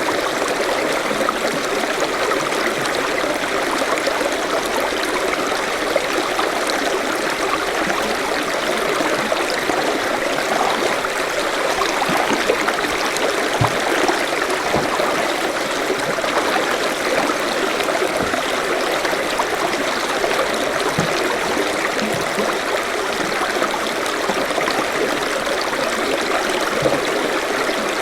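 Forest stream flowing over rocks: a steady rush of water with small gurgles and splashes.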